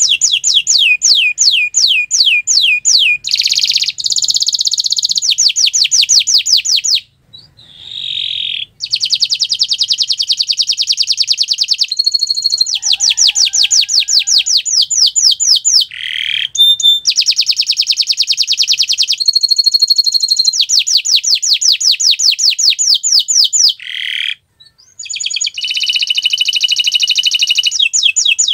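Domestic canary singing a long song of fast, rapidly repeated trills, broken by two short pauses, about seven seconds in and again about twenty-four seconds in.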